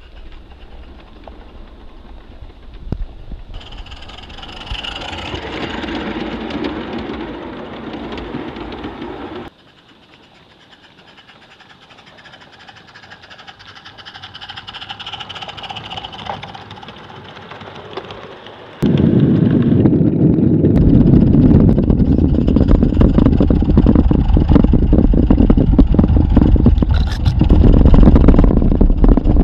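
Small live-steam garden-railway train running on its track, across several cut-together shots. From about two-thirds of the way in, a much louder, dense rumble with rapid clatter takes over.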